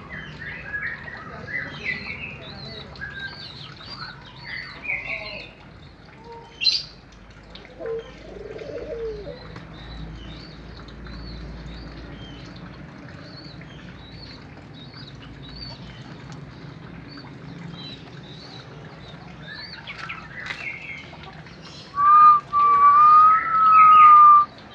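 Birds in a puter dove loft chirping and twittering continually in short high notes, with a few lower calls in between. In the last few seconds a loud, drawn-out high-pitched sound rises slightly and breaks off twice.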